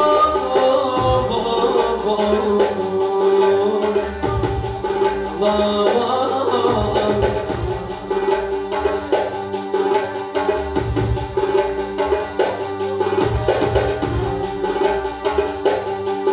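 Folk music: a plucked string instrument plays a melody over a steady held drone note, with drum beats underneath.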